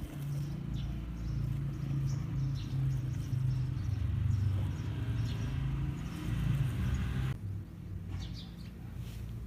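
RC model Land Cruiser's motor and drivetrain running as it drives off-road, a low hum that rises and falls, then cuts off suddenly a little past seven seconds in. Birds chirp faintly.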